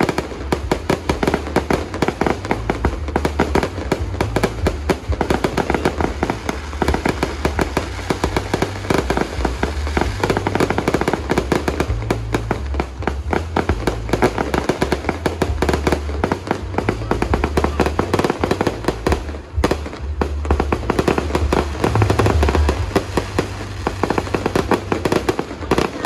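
Fireworks display going off in a dense, continuous barrage of bangs and crackles, many a second, over a deep rumble.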